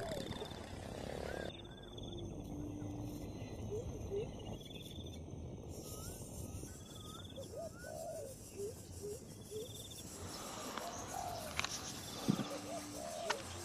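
Birds chirping: short rising calls repeat irregularly over a steady outdoor hiss, with a faint high buzzy note recurring every second or two.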